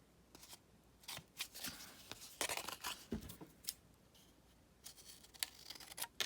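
Paper and card being handled and pressed down by hand: soft, irregular rustles and light taps, thickest in the first half, then a few faint ticks.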